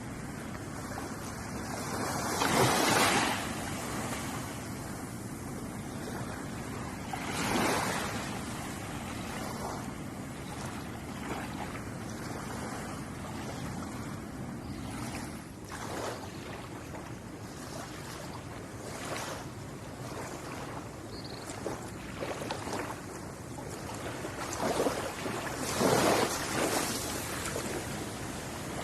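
Ocean surf washing onto a shore: a steady rush of water that swells with each breaking wave every few seconds, loudest about three seconds in and again near the end.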